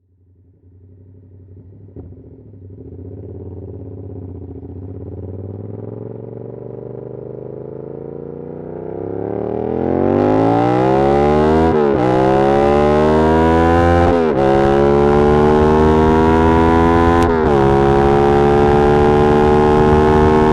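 2022 Yamaha R7's 689 cc parallel-twin engine through an SC-Project CR-T exhaust, running at low revs at first. From about ten seconds in it accelerates hard, its pitch climbing and dropping sharply at three upshifts.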